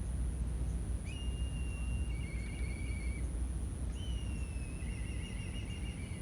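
A bird singing two phrases, each a clear held whistle that slides into a quick warbling trill, over a steady low rumble.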